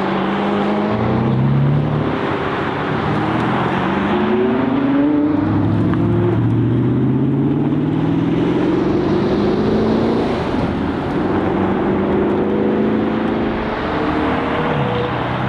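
Sports car engines accelerating hard, their pitch climbing in several long sweeps with short dips between them as the gears change.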